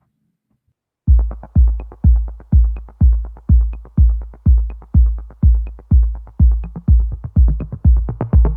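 Electronic background music that starts about a second in, with a heavy kick drum beating about twice a second.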